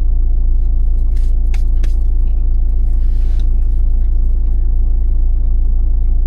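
Vehicle engine idling, a steady low rumble heard from inside the cab, with a few short clicks and a brief rustle over it.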